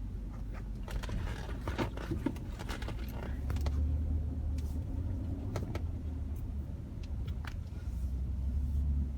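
Steady low vehicle rumble, stronger through the middle and again near the end, with scattered short clicks and knocks.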